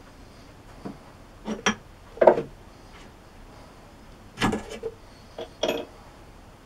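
Metal parts clinking and knocking as a turned spacer is slid onto a lathe's change-gear stud to test the fit. There are about eight short clinks in two groups, the loudest a little over two seconds in.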